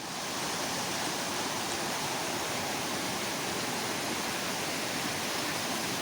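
Steady rush of flowing water, an even hiss-like roar that fades in at the start and holds constant.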